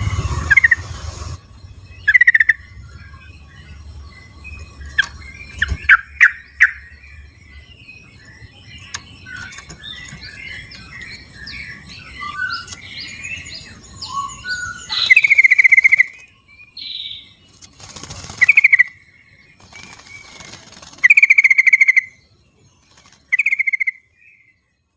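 Wild yellow-vented bulbuls calling back and forth: loud, short bubbly phrases come in bursts every few seconds, with quieter chattering notes in between.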